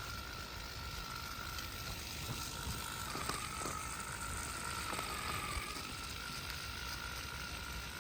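Small electric RC motors running with a steady whine and a light gear rattle. The pitch sags briefly about five and a half seconds in, as if under load.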